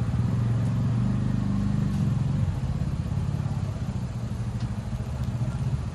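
A motor vehicle engine running, a steady low hum that is strongest for the first two seconds or so, then eases off.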